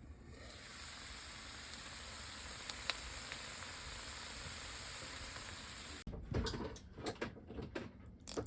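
Corned beef hash sizzling in a frying pan, a steady hiss with a couple of sharp pops. About six seconds in it gives way abruptly to a run of small irregular clicks and knocks.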